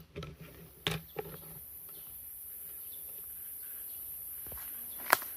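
Steady high-pitched insect drone, with a few scattered clicks and one sharp louder click near the end.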